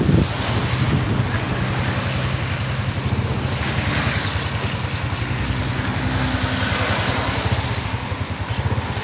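Motorcycle engine running at a steady speed while riding, its low hum under constant wind rushing over the microphone.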